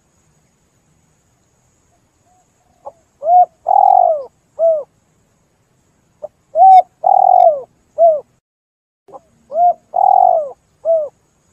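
Spotted dove cooing: three phrases about three seconds apart, each a faint short note, then a short coo, a longer drawn-out coo and a final short coo, every note falling in pitch.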